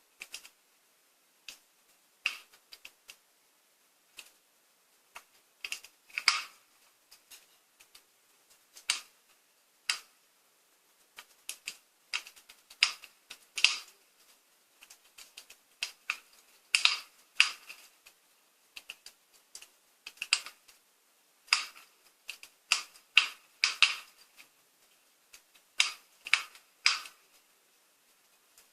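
Recorded wood fire crackling, played from a TV fireplace video: irregular sharp snaps, some in quick clusters, with short quiet gaps between.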